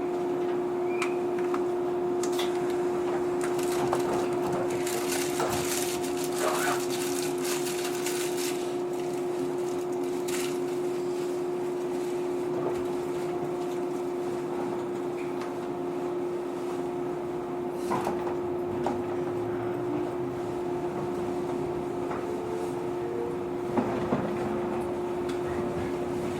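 Cabin running sound of a JR 115 series electric train moving off from a station: a steady two-note electrical hum over running noise, with scattered clicks and knocks from the car.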